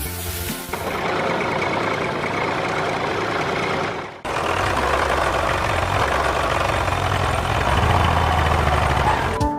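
Tractor engine running steadily. The sound breaks off sharply about four seconds in and picks straight up again.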